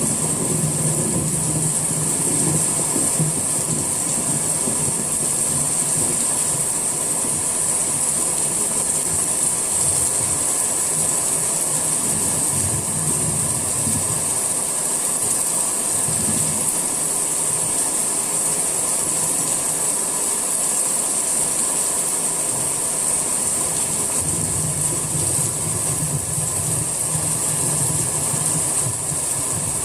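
Steady summer rain falling, an even hiss with a low rumble that swells near the start and again for several seconds near the end.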